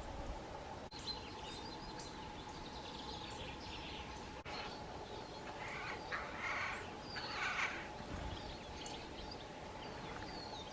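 Wild birds chirping and calling, with a few louder, harsh rasping calls about six to eight seconds in, over a faint steady hum.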